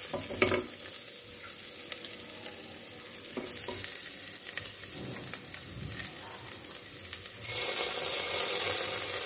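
Shallots, green chillies and curry leaves sizzling as they fry in oil in a pressure cooker, with a spatula stirring and scraping now and then. The sizzle grows louder about seven and a half seconds in, as ginger-garlic paste goes into the hot oil.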